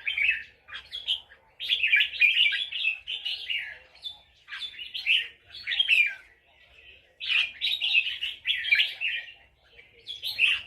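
Red-whiskered bulbul singing: repeated bursts of quick, bright chirping phrases, each a second or two long, separated by short pauses.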